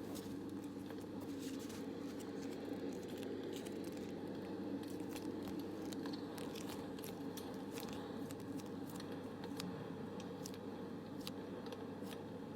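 Steady low background noise with scattered small, sharp crackles and clicks at irregular moments.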